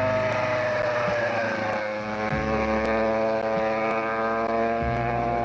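Competition car's engine running at high revs, its pitch easing down a little over the first two seconds and then holding steady.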